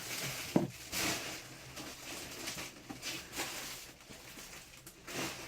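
Homemade glue slime being handled in a bowl as bicarbonate-and-boric-water activator is added: a handful of soft, short wet handling noises over a low hiss.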